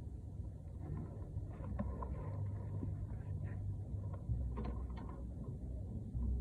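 Light metallic clinks and taps of brake parts and hand tools being handled, scattered over a few seconds, over a steady low rumble.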